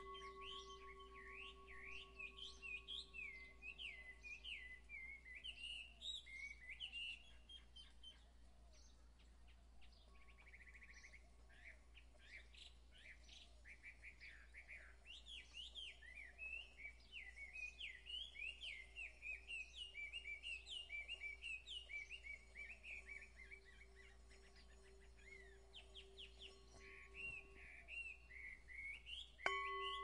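Birdsong: many quick high chirps and trills from several birds. A chime rings a few steady tones that fade away over the first several seconds, and is struck again near the end.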